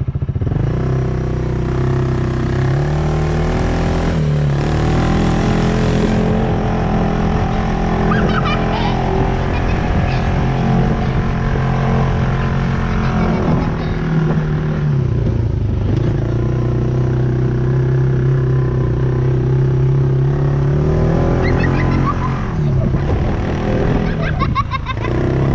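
Polaris RZR side-by-side's engine running under way, holding a steady speed and easing off and picking up again a few times: about four seconds in, midway through, and near the end.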